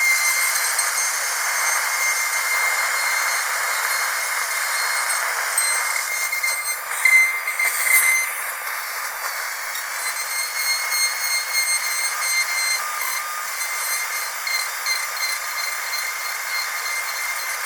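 Dentist's drill running with a thin, steady high-pitched whine over a hiss, growing louder and wavering for about a second around the middle.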